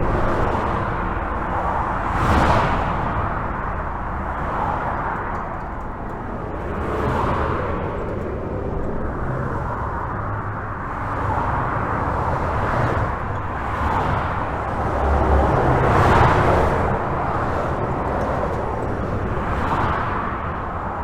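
Highway traffic heard from under a bridge: a continuous rush of tyre and engine noise with a low rumble, individual vehicles swelling past and fading every few seconds.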